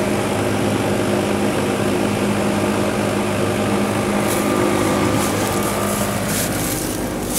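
Outdoor air-conditioning condenser unit running steadily: compressor hum under the whir of the condenser fan. It is running on a fan-only (G) call, a sign that it is wired to the fan terminal.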